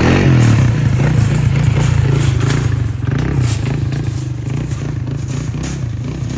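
Utility ATV engine running under load, close up, with scattered knocks and rattles. It starts abruptly and eases off slightly toward the end.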